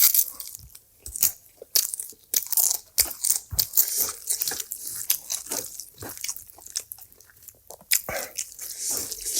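Close-miked eating: crunchy bites and chewing with many small crackles and clicks, and a louder, noisier patch of crunching near the start and again near the end.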